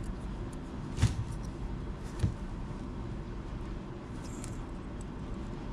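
Two light knocks from small parts being handled on a workbench, about a second in and again about a second later, over a steady low hum.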